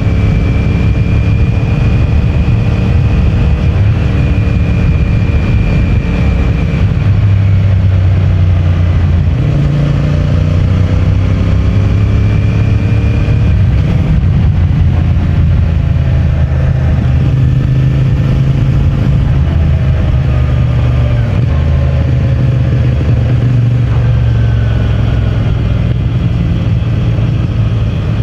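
CFMOTO 450MT's parallel-twin engine running through its stock exhaust while riding, the engine note stepping up and down several times as the throttle and gears change.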